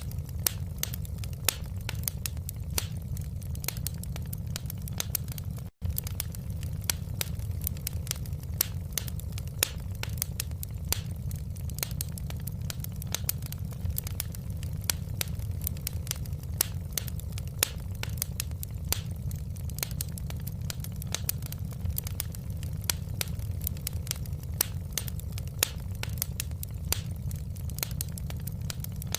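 Wood fire in a fireplace crackling: frequent sharp pops and snaps over a steady low rumble. The sound drops out for an instant about six seconds in.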